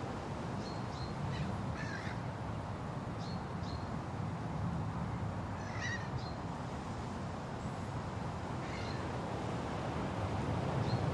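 Steady wind through a forest, with short bird calls every couple of seconds over it.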